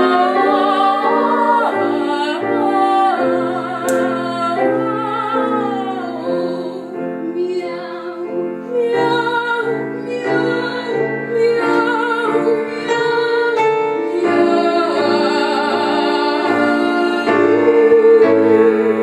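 Young female voice singing opera-style with vibrato over piano accompaniment, in a comic duet sung on 'meow'. A long held note near the end.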